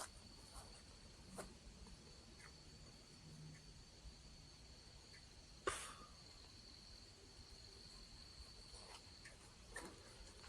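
Faint, steady high-pitched trill of crickets calling in the dark, with a single sharp click a little past halfway through.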